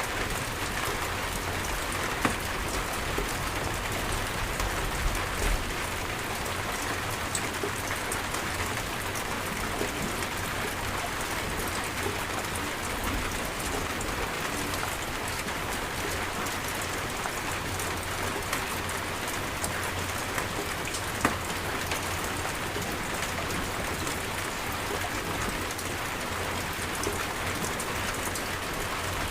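Steady heavy rain falling and pattering on surfaces, with a few sharper drop hits standing out now and then.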